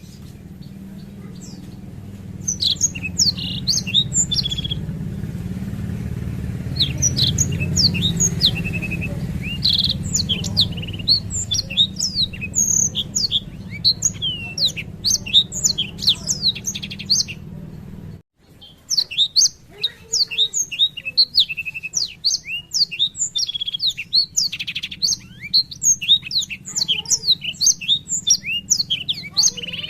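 Blackthroat (black-throated canary) singing a long rolling song of rapid, high chirps and trills that runs on almost without pause. A steady low hum underlies the first half and stops with a brief break a little past halfway.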